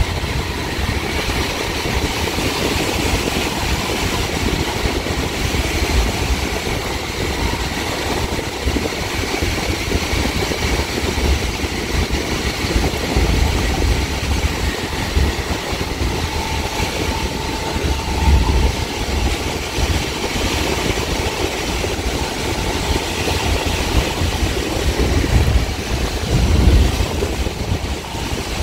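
Caltrain gallery cab car running at speed, with a steady rumble and rattle of wheels on the rails. Heavier low rumbles swell in now and then.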